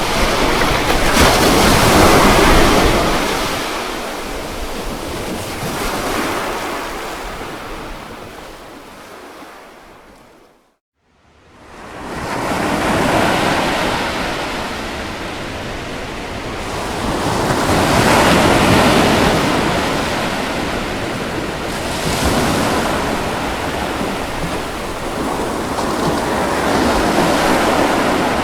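Ocean waves washing in and out in slow surges. About ten seconds in, the sound fades out to silence for a moment and then swells back.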